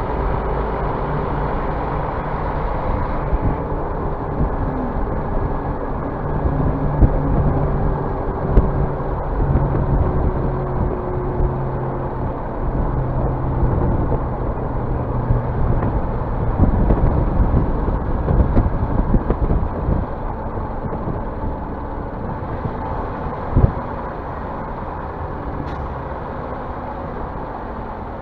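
Scania bus running with a steady engine drone, with scattered knocks and rattling thumps and one sharp knock near the end.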